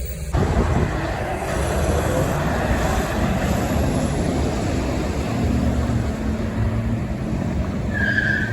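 Road traffic passing: a steady rush of vehicle and tyre noise that sets in suddenly right at the start. A short high-pitched beep sounds near the end.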